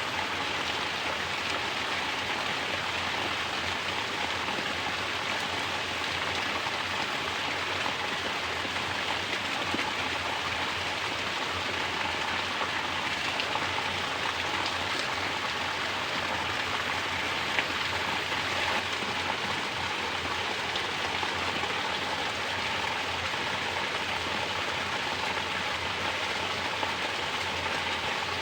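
Mountain spring water pouring down from a natural shower and splashing steadily, a dense even patter of falling water.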